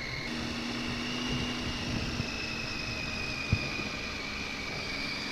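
Motorcycle engine running at a steady low speed over wind noise, with a single sharp knock about three and a half seconds in.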